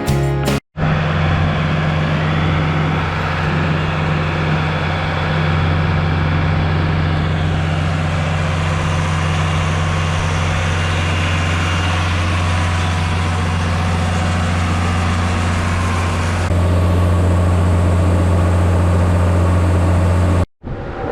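Heavy engine running steadily with a low hum. The sound drops out briefly just after the start and again near the end, and it gets slightly louder about 16 seconds in.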